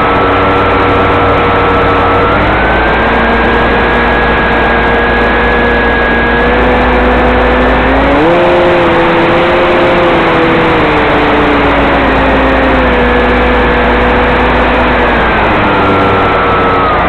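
Radio-controlled scale floatplane flying low passes, its motor running with a steady drone whose pitch steps up about eight seconds in and falls back in stages near the end as the throttle and distance change.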